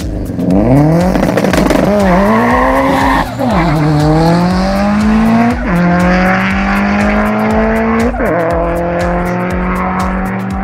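A car's engine accelerating hard through the gears: the pitch climbs, drops sharply at three upshifts about 3.5, 5.5 and 8 seconds in, and climbs more slowly in each higher gear.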